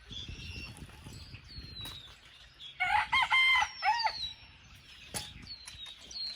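A rooster crows once, about three seconds in: a loud call of several notes lasting about a second and a half. Small birds chirp with short falling notes.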